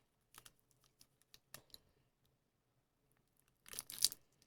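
Faint plastic crinkles and clicks from handling a wrapped candy packet, then near the end a short rustling tear as the Zitos candy wrapper is ripped open.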